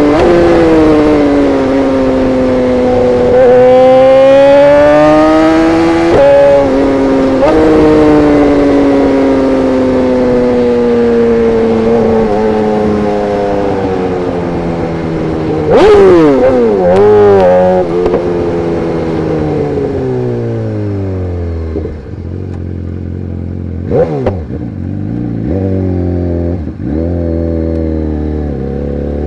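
BMW S1000RR inline-four engine through an Arrow Pro exhaust, ridden with engine speed falling and climbing and a sharp throttle blip about halfway through. It then drops to a low idle with a few short throttle blips near the end.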